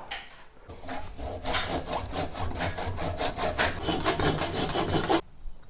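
A tool cutting through the old wooden handle stuck in an axe head's eye, in a fast, even run of rasping strokes, about four a second, that stops suddenly near the end.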